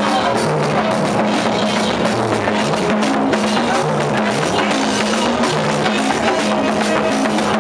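Upbeat band music with a drum kit and a bass line stepping between held notes, playing steadily.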